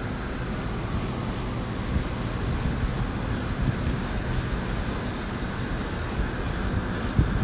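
Train running through the station: a steady low rumble with a few faint clicks.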